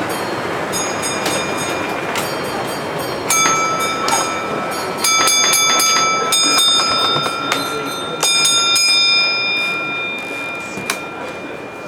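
A model train layout sounding a series of high-pitched whistle-like tones, each held steady for a second or two, over hall background noise and scattered small clicks.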